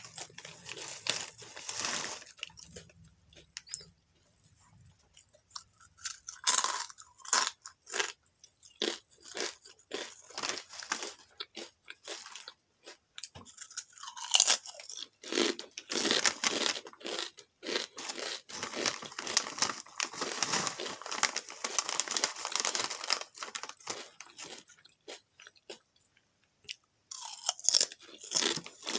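Someone chewing crunchy seaweed-flavoured potato chips close to the microphone, in irregular bursts of crunching with a few short pauses.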